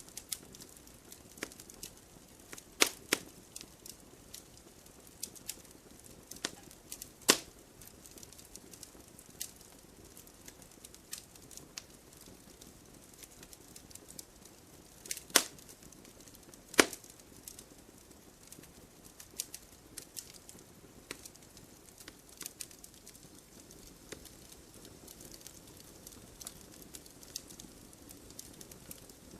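Logs burning in a fireplace, crackling with scattered small snaps and a few louder pops, two close together about three seconds in and others near seven, fifteen and seventeen seconds, over a faint steady hiss.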